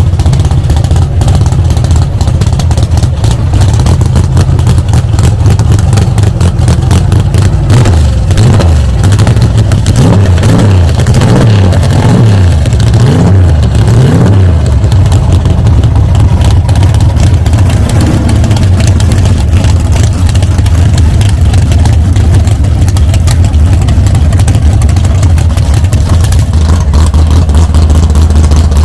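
Car engine idling with a deep, steady rumble, revved several times in the middle so that its pitch rises and falls, then settling back to idle.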